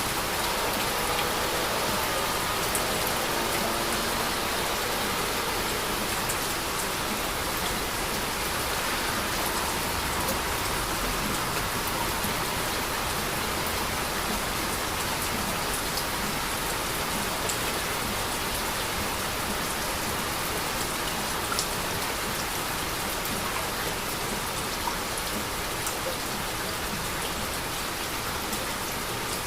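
Heavy rain falling steadily, with a few sharper drop impacts standing out now and then.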